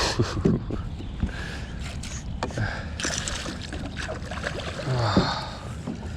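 Water splashing and gurgling around a kayak with scattered light knocks and clicks against the boat, as a hooked fish is landed.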